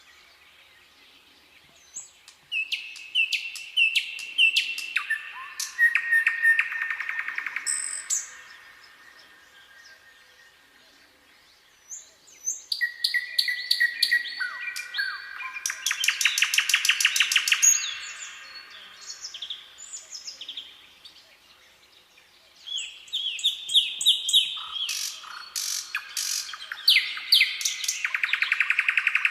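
A songbird singing three phrases separated by pauses of a few seconds. Each phrase is a run of quick repeated notes stepping down in pitch and ending in a fast trill.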